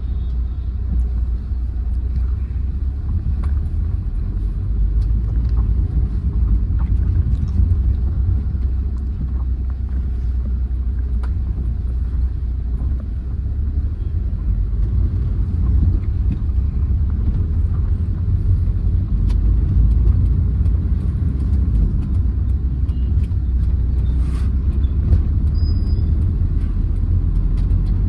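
Steady low rumble of a 2008 Hyundai Verna 1.6 turbo diesel on the move, engine and road noise blended, with a few faint clicks.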